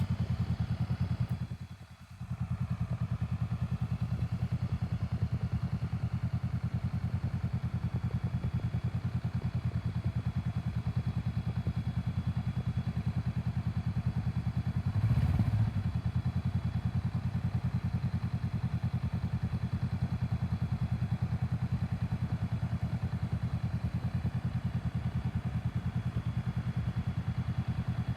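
Honda Rebel motorcycle engine running at a steady idle. The sound dips briefly about two seconds in and swells briefly about fifteen seconds in.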